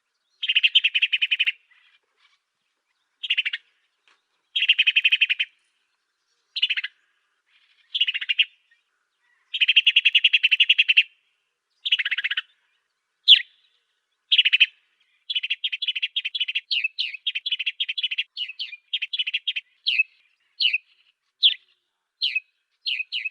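Song of the small finch-like bird that Indonesian bird-keepers call the 'African sparrow' (burung gereja afrika): buzzy, rapidly trilled phrases of about a second each, separated by short pauses, turning about two-thirds of the way in into a quicker string of short, downward-sweeping chirps.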